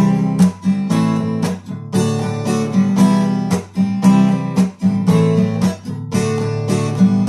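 Acoustic guitar strummed in a steady rhythm, about two strokes a second, playing chords without singing.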